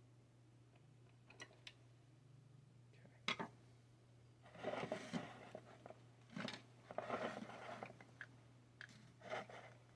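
Hands handling parts during assembly: a sharp click a little over three seconds in, then several short bursts of rustling handling noise, over a steady low hum.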